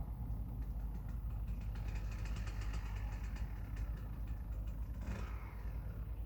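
Dirt bike engine running steadily, with a brief surge near the end.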